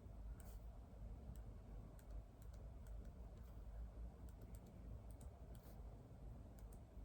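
Faint typing on a computer keyboard: irregular, quick keystroke clicks with short pauses between bursts, over a steady low room hum.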